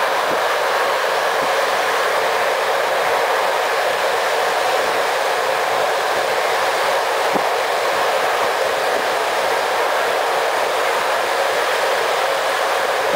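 Steady rushing ride noise inside a passenger train carriage running at speed, the wheels rolling on the rails, with a few faint ticks.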